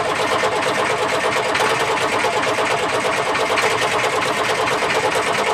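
Starter motor cranking the Mercedes OM636 four-cylinder diesel steadily without it catching: the engine tries to fire but does not start.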